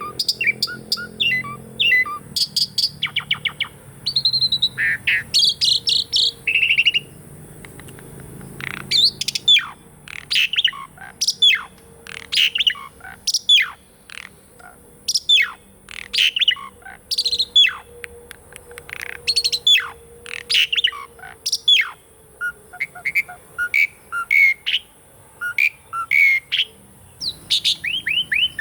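Asian pied starling (jalak suren) singing a varied song: mixed whistles and rattling chatter, then from about ten seconds in a long run of sharp downward-sweeping notes, one to two a second, ending in shorter chirps.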